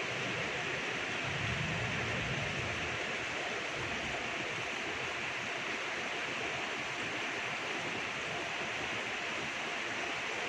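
Steady rain falling, an even hiss of drops with no break. A faint low rumble passes under it a second or two in.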